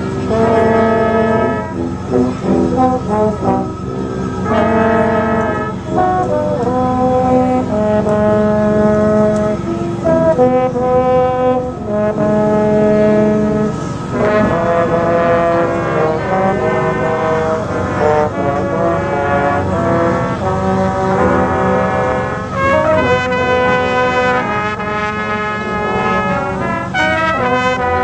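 Community concert band playing a tune, brass instruments to the fore, holding sustained chords under a moving melody.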